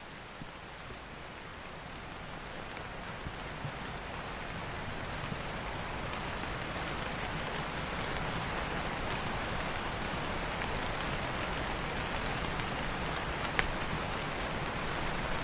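Steady rain falling, with a few separate drops ticking; it grows gradually louder over the first several seconds, then holds.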